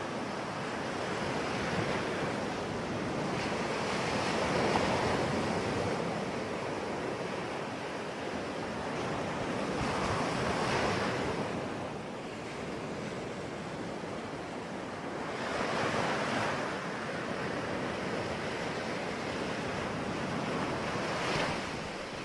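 Ocean waves breaking and washing on the shore, a steady rush of surf that swells every few seconds, with some wind.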